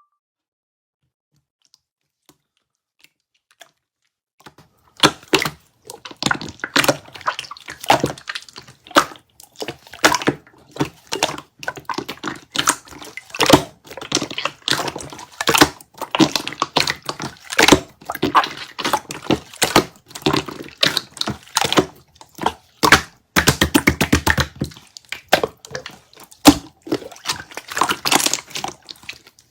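Kiwi water jelly being handled: a dense, irregular run of crisp clicks, taps and wet squishes. It starts about four and a half seconds in, after near silence.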